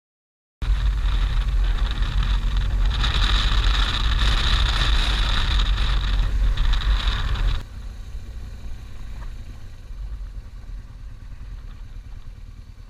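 Motorcycle on the move: engine and wind rush on the on-board microphone, with a heavy low rumble. It starts abruptly, then drops sharply in level about seven and a half seconds in and carries on more quietly.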